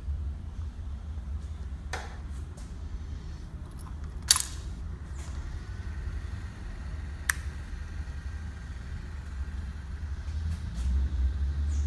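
Honda Tornado motorcycle's single-cylinder engine idling through its original stock exhaust, a steady low rumble that grows louder near the end. A few sharp clicks sound over it.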